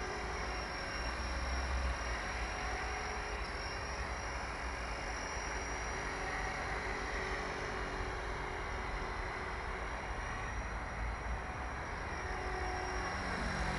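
The repaired X3V vehicle running steadily on test: a constant low rumble and rushing noise with a faint steady whine.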